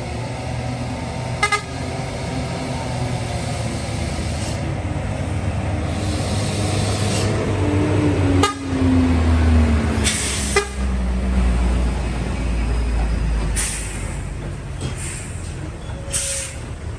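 Heavy diesel truck passing close, its engine rumbling deep and its note falling slowly in pitch, with several short hisses of air from its air brakes.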